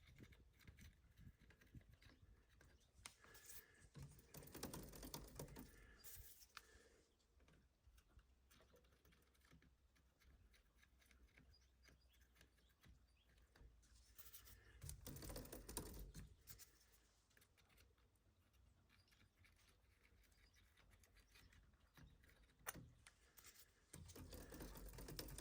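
Faint ticking and clicking from a bicycle chain and drivetrain as the chain is turned through while ceramic lube is applied to it, with a couple of louder stretches of rattling.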